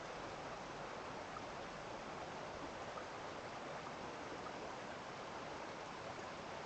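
Steady, even rush of running water, like a stream flowing, with no change in level.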